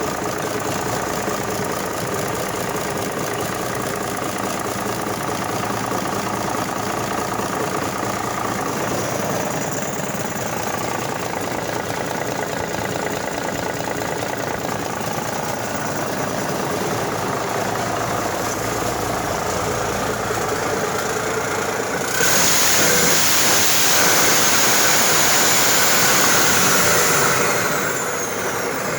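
Cummins Big Cam NTA 855 14-litre six-cylinder diesel running steadily on a test run. About three-quarters of the way through it suddenly gets louder as it is revved, with a high whine that falls in pitch as it drops back near the end.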